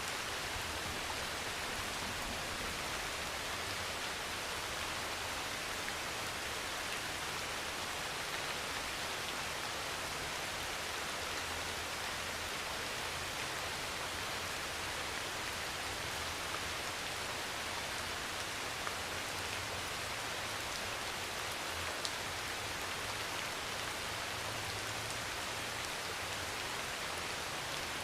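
Heavy rain pouring steadily on a metal roof, a dense even hiss with occasional sharper drop ticks and a low rumble that swells and fades.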